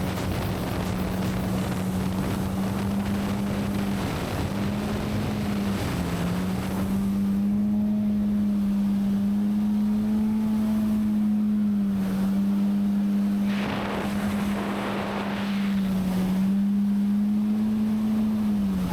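Jet ski engine running at a steady cruising speed, its note dipping briefly a few times as the throttle eases and falling away at the end, over a rush of wind and water.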